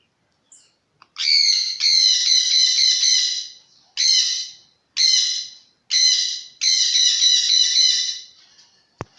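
Jandaya parakeet calling loudly in rapid runs of repeated squawking notes, in several bouts broken by short pauses, starting about a second in and stopping near the end.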